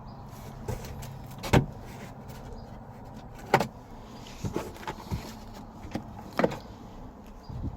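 A seatbelt that has jammed in its locked retractor being tugged, giving a series of sharp clicks and clunks, three louder ones about two seconds apart with smaller knocks between. The belt will not pull out because its retractor has locked.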